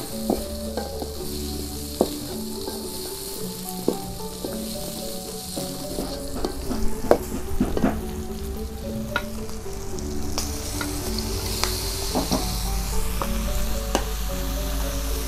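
Stir-frying in a metal wok: chilli and spice paste sizzling while a metal spatula stirs, scraping and clicking against the pan. The sizzle grows louder in the second half.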